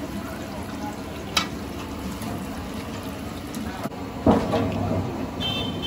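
Hot oil sizzling as a Mughlai paratha fries in an iron kadai, with a sharp metal clink about a second and a half in and a louder knock of the utensil against the kadai a little past four seconds. A short high beeping tone sounds near the end.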